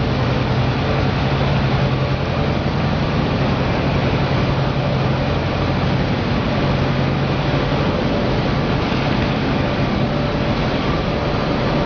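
Perlite expansion plant machinery running: a steady, loud mechanical noise with a low hum that fades about three-quarters of the way through.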